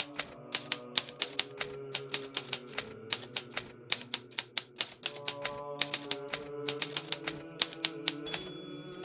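Hermes Baby portable manual typewriter being typed on steadily, a quick run of sharp key strikes, several a second, with a short pause near the end. Soft background music with held notes plays underneath.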